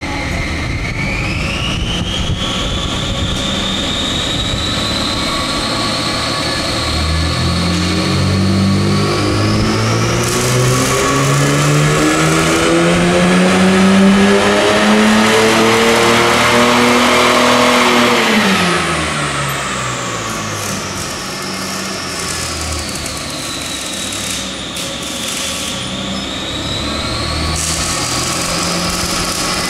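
Ford AU Falcon inline-six with modified exhaust and cold-air intake, driving the rollers of a chassis dyno. The tyres and rollers whine, rising with speed. About seven seconds in, the engine comes under load in a full power run, its note climbing for about ten seconds. It then lifts off, and the engine note and whine fall away before the rollers pick up speed again near the end.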